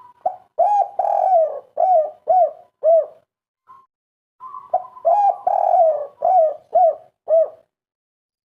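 Spotted dove (tekukur/derkuku) of the 'kuk 3' song type cooing: two full song phrases, each a long coo followed by a run of short, evenly spaced coos, with a short pause between the phrases.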